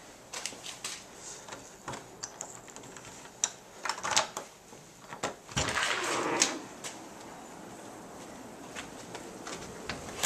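Scattered small clicks and knocks, with a brief rustle about six seconds in.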